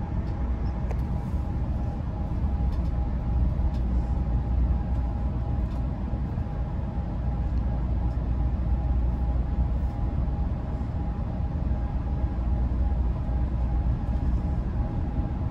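Steady low rumble of a bi-level passenger railcar rolling along the track at speed, heard from inside the car, with a faint steady hum over it.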